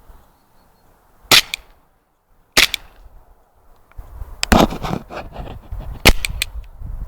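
Airsoft M9 pistol firing single shots: four sharp cracks, unevenly spaced a second or more apart, with some rustling between the later ones.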